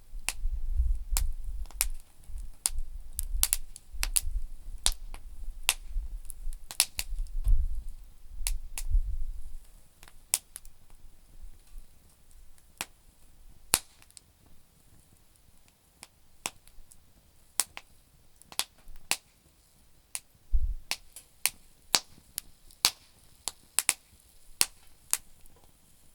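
Campfire of damp firewood crackling, with frequent irregular sharp pops. A low rumble runs under the pops for the first ten seconds and comes back briefly near the twenty-second mark.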